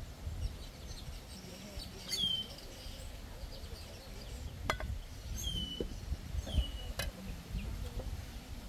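A bird gives three short chirps that slide down in pitch, about two, five and a half and six seconds in, over a low background rumble. Two sharp clicks fall between and after them.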